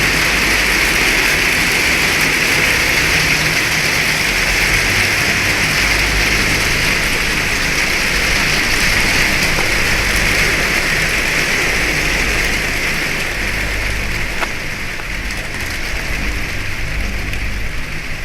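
Heavy rain pouring steadily, a dense even hiss of drops on hard surfaces, easing a little in the last few seconds.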